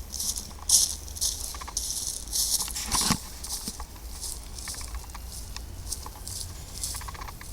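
Footsteps crunching and rustling through dry leaf litter and undergrowth, about two steps a second, growing fainter in the second half. There is a sharper crack, like a twig snapping, about three seconds in.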